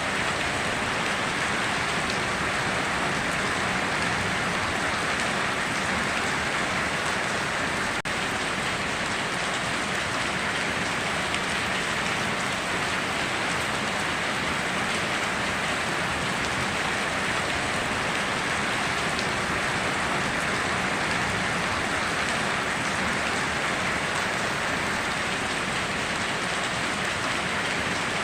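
Steady heavy rain falling on surfaces, an even hiss with no breaks or thunder claps.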